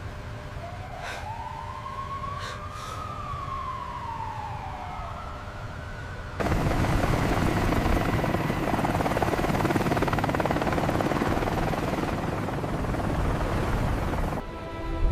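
A siren wailing, its pitch rising and falling, then about six seconds in a loud rushing noise cuts in suddenly and drowns it out, easing off just before the end.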